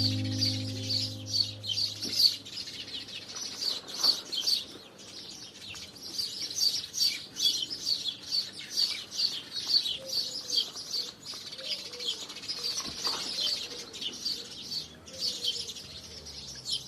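Several sparrows chirping in a dense, continuous chatter of short, high chirps, many a second. Soft background music with low held notes fades out in the first two seconds.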